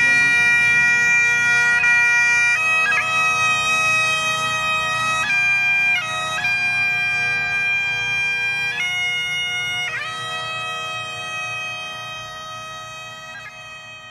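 Bagpipes playing a slow melody of long held notes over a steady drone, fading out gradually toward the end.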